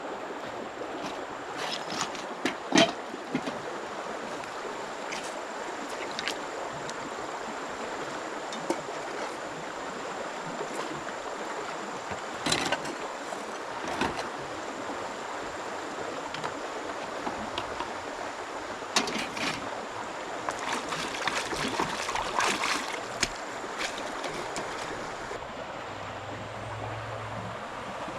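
Steady rush of flowing water, with scattered sharp knocks and clatters; the loudest knock comes about three seconds in, and a cluster comes near the end.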